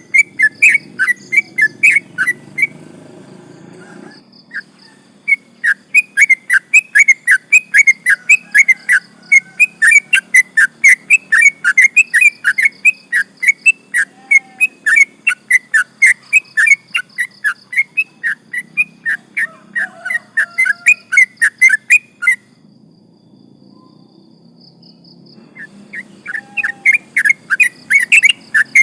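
Yellow-vented bulbul singing a long, fast run of sharp whistled notes, about three a second. The run breaks off twice, briefly about three seconds in and for a few seconds past the middle, and then starts again.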